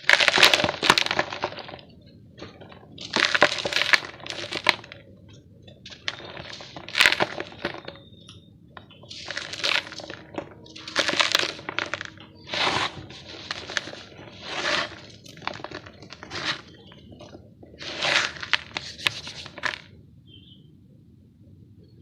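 Dry, gritty chunks of yellow dirt being crushed and crumbled, a crunching in about ten separate bursts of a second or so each, stopping a couple of seconds before the end.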